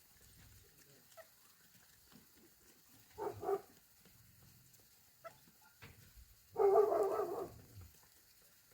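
An animal calling: two short calls about three seconds in, then a louder, longer call about six and a half seconds in.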